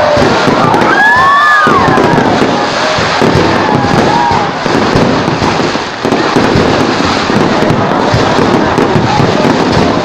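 Fireworks going off in a dense, continuous barrage of bangs and crackling. A few tones rise and fall over it in about the first two seconds.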